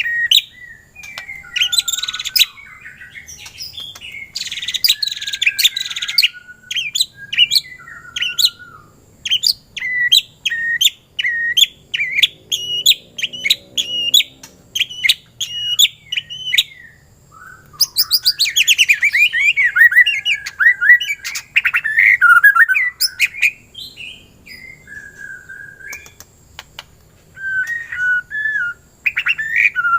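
White-rumped shama (murai batu) singing a long, varied song of loud whistles and chirps, with a run of quick repeated notes and later a dense stretch of rapid trills.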